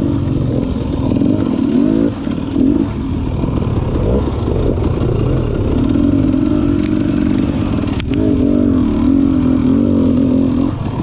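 Two-stroke dirt bike engines idling, with the throttle blipped several times so the pitch briefly rises and falls. There is a single sharp click about eight seconds in.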